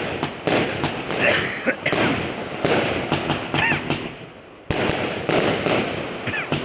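A 100-shot consumer fireworks cake of 20 mm tubes firing shot after shot in rapid succession, with sharp reports and crackle. There is a short lull about four seconds in before the shots pick up again.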